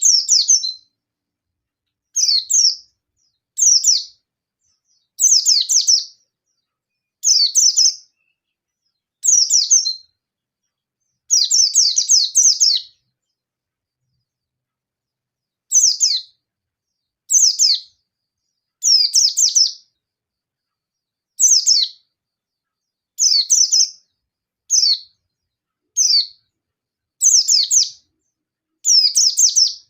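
Yellow-breasted white-eye (pleci) singing in short, rapid, high-pitched twittering bursts of about a second each, repeated over and over with brief silent gaps and one longer pause a little before halfway. It is the agitated, challenging song that keepers use to provoke rival white-eyes into answering.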